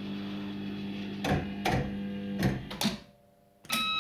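Bell Fruit Firecracker fruit machine spinning its reels: a steady motor hum with several clunks as the reels stop, the hum cutting out about three seconds in, then a short electronic beep near the end.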